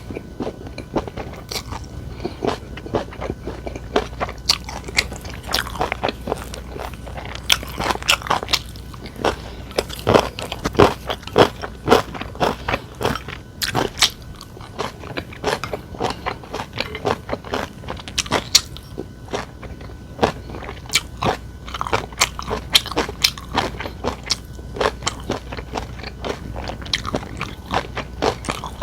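Close-miked eating: someone biting and chewing crunchy food, a busy, irregular run of sharp crisp crunches with short pauses between mouthfuls.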